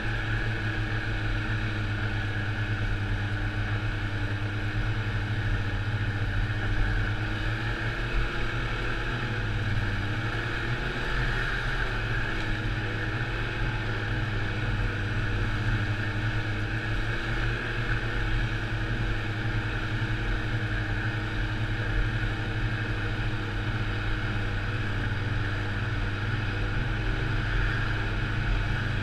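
Snowmobile engine running steadily under way, with a brief drop and recovery in revs about ten seconds in.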